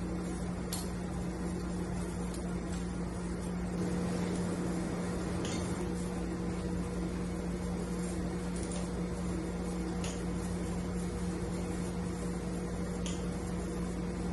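Steady electric hum of running shop equipment, with a handful of light metallic clinks from hand tools on engine parts.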